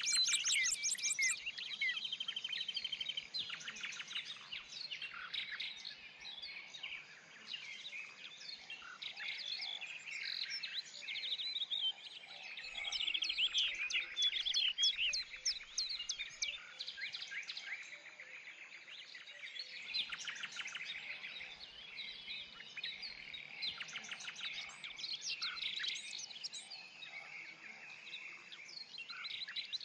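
Several songbirds singing and chirping together, a dense chorus of overlapping trills and quick high note series that swells and fades.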